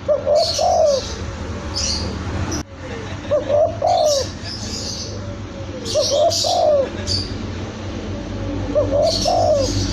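Young spotted dove (tekukur) cooing: a short, clear coo phrase repeated four times, about every three seconds. High, quick chirps from small birds sound over each phrase.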